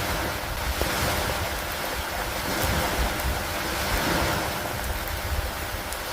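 Steady rain falling over a low, fluctuating rumble of wind.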